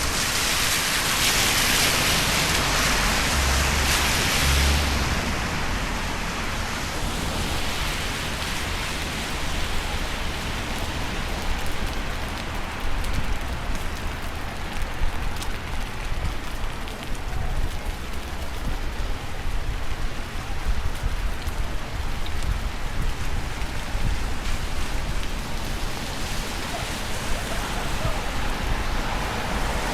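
Steady rain: an even hiss with many small drop ticks. The hiss swells louder in the first few seconds and again near the end.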